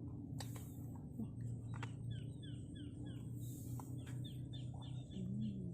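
A small bird chirping in a quick series of short falling peeps, about three a second, starting about two seconds in, over a steady low hum.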